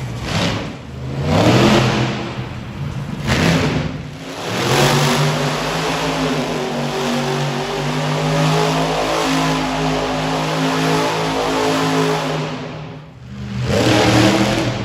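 Monster truck engine revving hard in several quick blips, then held at high revs for about eight seconds. It drops off briefly and revs up again near the end.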